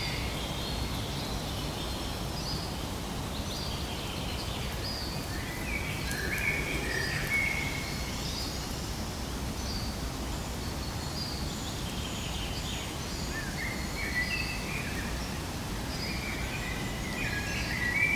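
Birds chirping, several short calls at a time in a few clusters, over steady outdoor background noise.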